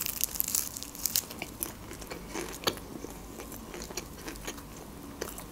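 Close-miked crunching as a crisp, toasted lavash quesadilla is bitten and chewed. The crackles are many and irregular, densest in the first second or two and thinning out toward the end.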